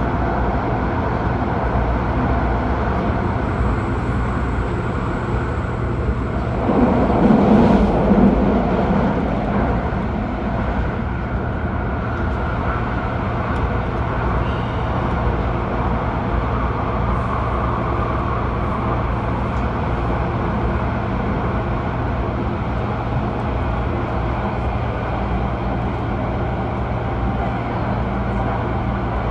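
Adtranz CAF A-Train electric train of the Airport Express running at speed through a tunnel, heard from inside the passenger cabin: a steady rumble of wheels and motors on the rails with a low hum. About seven seconds in, a louder rush swells for a couple of seconds, then the running noise settles again.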